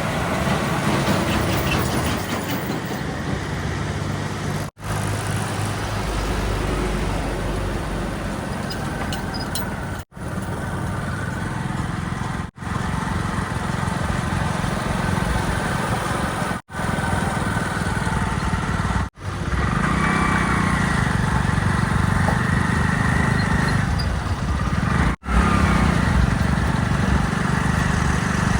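Heavy diesel engines of earthmoving and haulage machines running steadily, in a string of short clips joined by abrupt cuts every few seconds. From about 20 to 25 seconds in, a wavering whine rises and falls over the engine sound.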